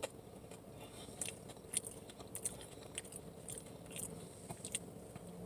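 A person chewing food close to the microphone: faint, irregular mouth clicks and smacks.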